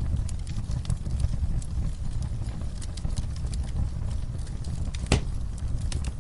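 Wood fire crackling in a fireplace: a steady low rumble of flames with scattered quick snaps, and one sharper pop about five seconds in.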